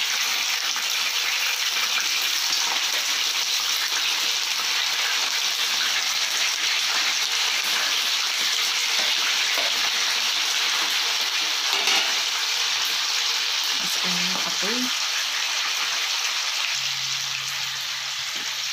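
Raw chicken pieces sizzling as they fry in hot cooking oil in a frying pan: a steady, crackling hiss.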